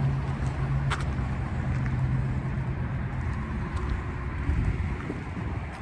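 A truck engine running at idle, a steady low rumble with a low hum that fades over the first few seconds, and a single click about a second in.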